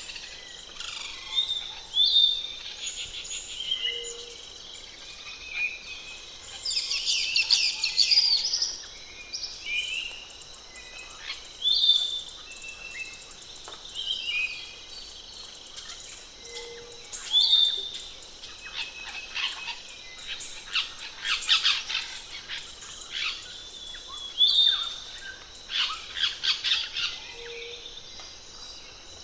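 Several wild forest birds calling: a busy mix of high chirps, short whistles and rapid trills, overlapping and repeated again and again.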